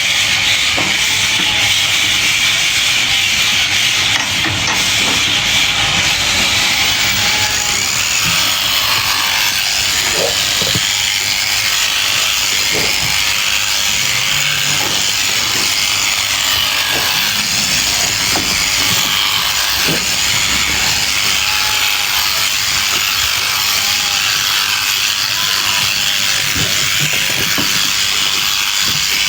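Sheep shears cutting through a fleece, a steady rasping and clicking of the cutters.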